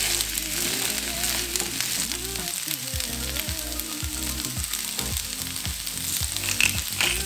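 Sliced courgettes and snow peas sizzling steadily as they fry in a nonstick frying pan, with background music underneath.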